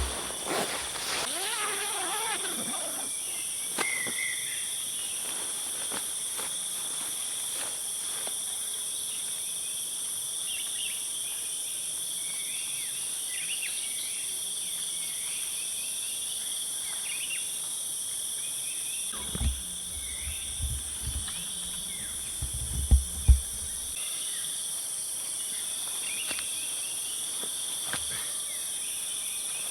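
Forest insect chorus, steady high-pitched shrilling at several pitches layered together, with a few faint chirps. About two-thirds of the way through, a cluster of dull low knocks, the loudest pair close together.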